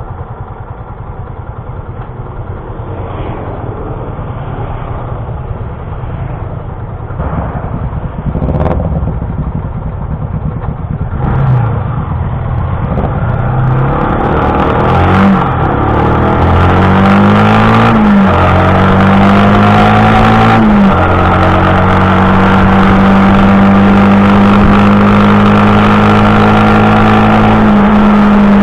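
Motorcycle engine under way: after about ten seconds of rough low rumble, the revs climb and drop several times as it accelerates through the gears, then hold steady at a cruise. A steady hiss from the wind or road rises with the speed.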